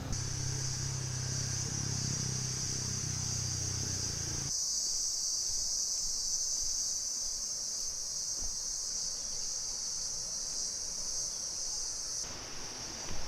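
Steady, high-pitched drone of a tropical insect chorus. During the first few seconds a low engine hum runs underneath, then cuts off abruptly.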